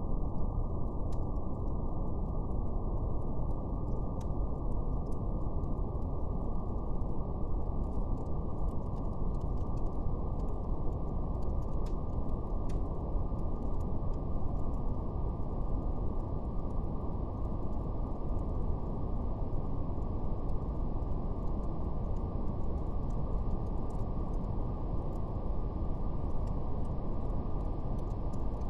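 Steady, deep brown noise, dull and muffled, with nothing above the low end. Faint, scattered crackles of a fire sit on top of it.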